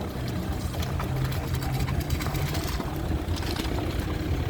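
An idling vehicle engine's steady low rumble, mixed with the hiss and splashing of rain floodwater running along a dirt road.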